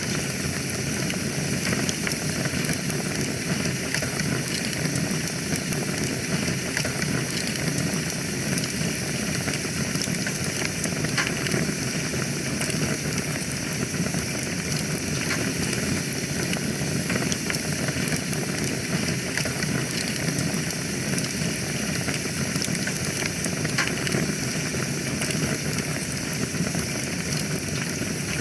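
Wood fire burning in a fireplace: a steady hiss with many small crackles and pops.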